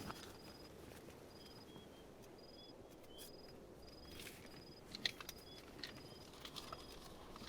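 Crickets chirping in short, evenly spaced high pulses over a quiet night ambience, with a few faint clicks and knocks past the middle.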